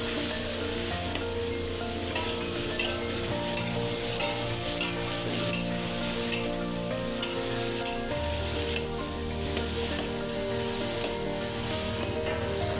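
Peanuts frying in hot oil in a metal wok, a steady sizzle. A metal spatula stirs and scrapes them round the pan without stopping, rattling the nuts against the metal.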